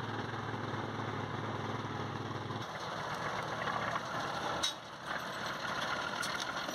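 An engine runs steadily with a low hum. About two and a half seconds in, the sound changes abruptly, and a sharp knock comes a couple of seconds later.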